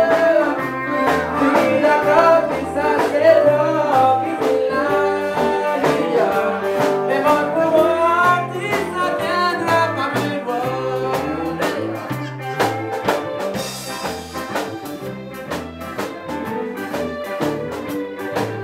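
A live band plays a Cajun-style song, with a melody over a stepping bass line and drums, and singing on top. It grows gradually quieter toward the end.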